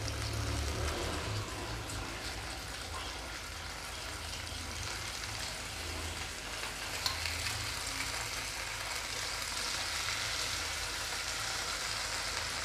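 Stuffed capsicums sizzling steadily in a little oil in a non-stick frying pan on a low gas flame.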